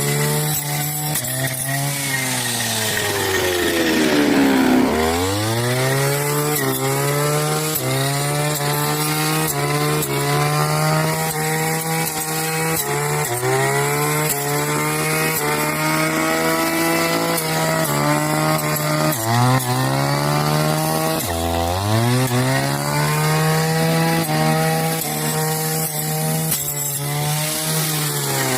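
Brush cutter engine running at high revs while cutting grass, its pitch sagging briefly again and again as it bites into the grass and rising back. Twice the revs drop deeply and climb back up, once early and once past the middle.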